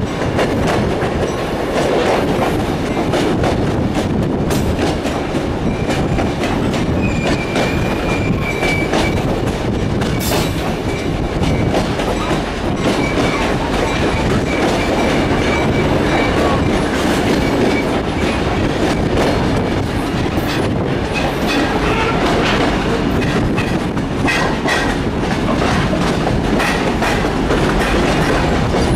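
Passenger train rolling along the rails, heard from the open side of a coach: a steady rumble of wheels on track with scattered irregular clacks. A faint thin squeal comes from the wheels about seven to nine seconds in as the train takes a curve.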